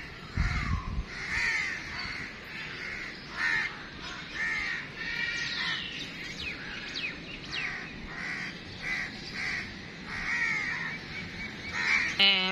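Birds calling over and over, short harsh calls overlapping one another, one to two a second. A brief low rumble comes just after the start.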